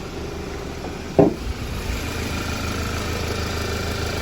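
Audi B8.5 A4 engine idling steadily, with one sharp knock about a second in.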